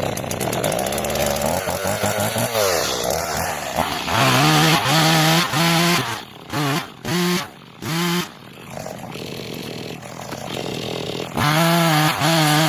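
Stihl two-stroke chainsaw running just after starting, its speed climbing at first and then revved high in several short bursts, dropping back to a lower speed between them.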